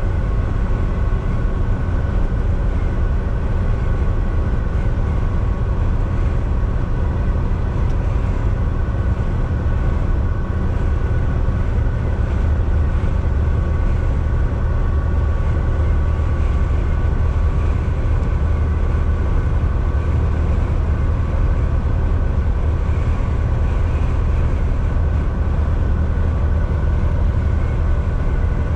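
Volvo VNL 760 semi truck cruising at highway speed, heard from inside the cab: a steady low engine drone with road and tyre noise and a faint, steady whine on top.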